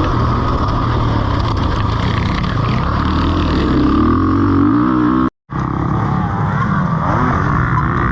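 Yamaha WR450F's 450 cc single-cylinder four-stroke engine revving hard around a motocross track, its pitch climbing and falling through the gears. The sound cuts out for a split second a little past five seconds in, then the engine is running again.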